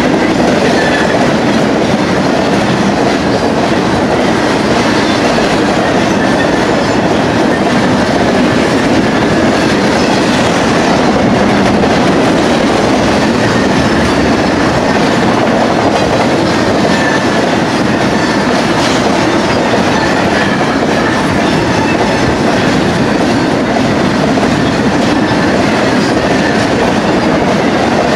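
Intermodal freight cars loaded with truck trailers rolling past close by: a loud, steady sound of steel wheels running on the rails.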